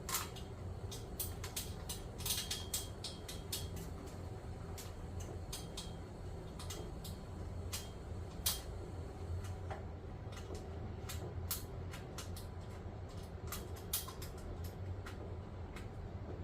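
Scattered light clicks and taps of hand tools and metal parts being handled while working on an exercise bike, irregular and a few a second, over a steady low background rumble.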